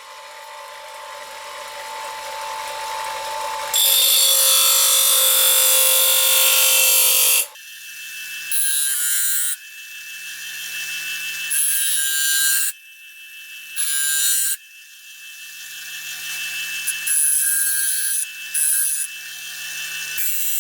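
Bench grinding wheel running, with a steel kitchen knife blade pressed to it in repeated passes to regrind a broken tip. There is a loud hissing grind, the longest pass about four seconds in, then several short touches, with the grinder's steady whine between them.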